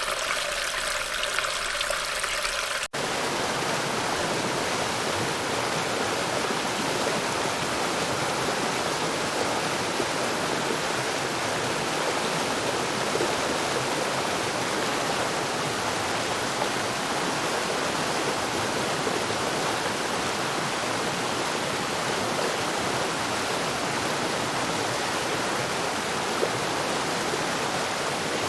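Stream rapids: a steady, loud rush of fast-flowing water. It begins about three seconds in, cutting in after a different draining-water sound from a storm drain.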